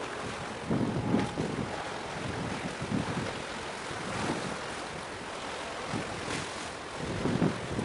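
Wind buffeting the microphone in irregular gusts over a steady outdoor rush of noise, strongest about a second in and again near the end.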